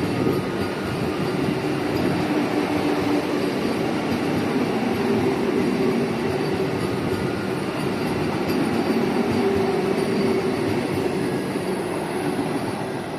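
Vande Bharat Express electric multiple-unit train running through the station at speed close by: a steady, loud rush of wheels on rails with a low hum from the passing coaches.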